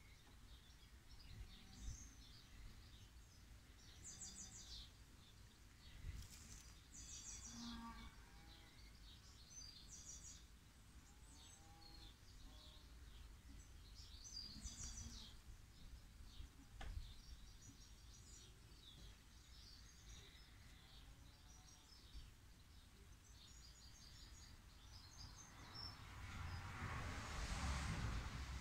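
Faint birdsong: small birds chirping and twittering at intervals over a low background hum. Near the end a broad rush of noise swells up.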